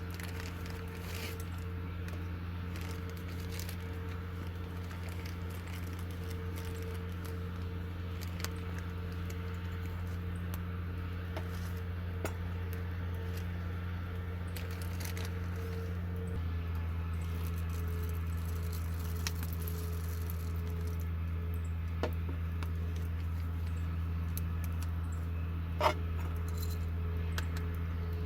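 Scattered light clinks and taps of camp cookware and utensils being handled, over a steady low hum. There is one sharper click near the end.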